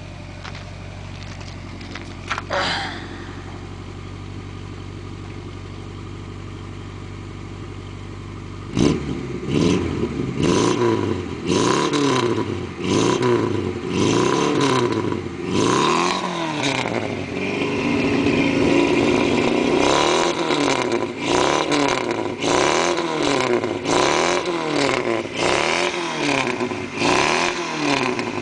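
Car engine with a dual exhaust idling steadily, then blipped up and down in quick repeated revs, about one a second, from about nine seconds in. The right-hand pipe still carries a silencer, so that side is heard little. A short sharp knock or click sounds about two and a half seconds in.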